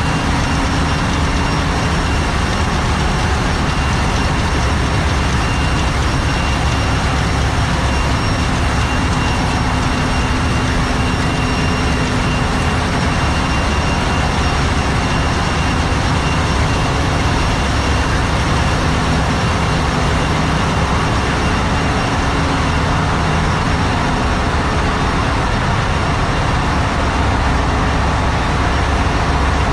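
Loud, steady machinery din of a ship's engine room, the running engines and auxiliary machinery blending into a continuous low rumble with a thin, steady high whine on top.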